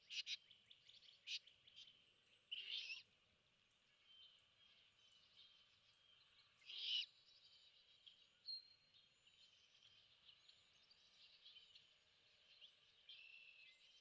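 Bird calls at a great horned owl nest. A few quick chattering notes open it, then two harsh, raspy calls slide down in pitch, about 3 and 7 seconds in, over faint background birdsong.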